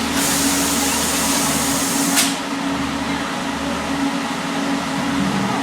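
Amusement-ride machinery humming steadily with a strong low drone. A loud hiss starts near the beginning and cuts off sharply about two seconds in.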